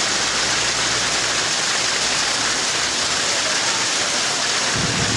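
Heavy rain pouring down in a steady, loud hiss. A low rumble sets in near the end.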